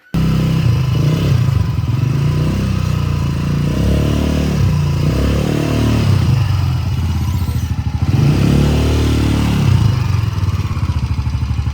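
An engine running, its pitch rising and falling several times as it is revved and eased off, starting and stopping abruptly.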